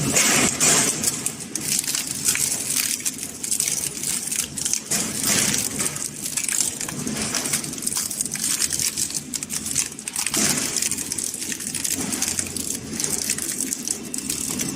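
Industrial metal shredder crushing and tearing scrap metal: an irregular run of crunching, cracking and snapping metal.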